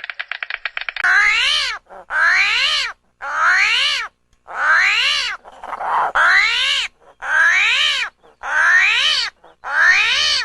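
An animal calling over and over: about eight loud, drawn-out calls of under a second each, every one rising and then falling in pitch, roughly one a second. A fast buzzing rattle runs for about the first second before the calls begin.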